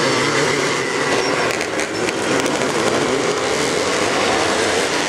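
Several vintage motocross motorcycle engines running at race revs as the bikes ride through a turn, their overlapping engine notes wavering up and down.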